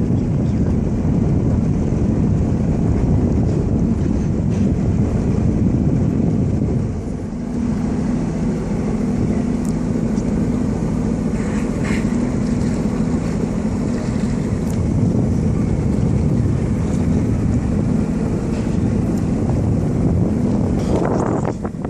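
Jet ski engine running under way, a steady hum under loud wind buffeting on the microphone and rushing water. The level dips briefly about a third of the way in, after which the engine's hum stands out more plainly.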